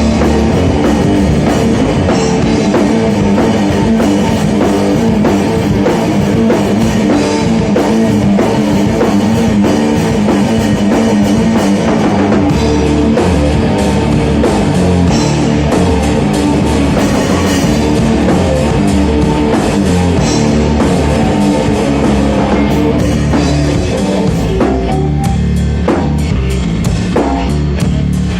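Rock music with a full drum kit and guitars playing loud and steady.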